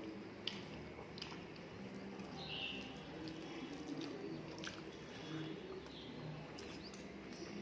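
A person chewing food by hand-eating, with small scattered mouth and finger clicks.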